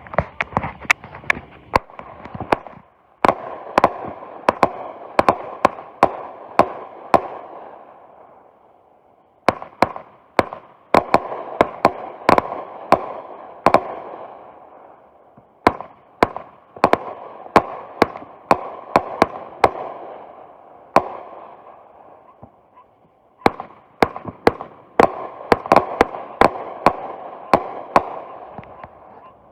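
Consumer fireworks cake firing in rapid volleys: sharp bangs several a second over a continuous rushing noise. There are three runs, with brief lulls about a third of the way in and about three-quarters of the way in.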